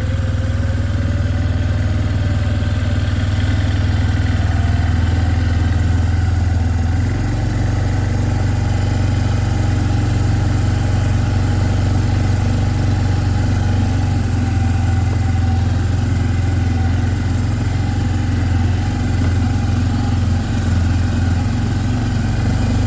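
A small vehicle's engine running steadily as it is driven, with a low, even hum. The engine note shifts about seven seconds in.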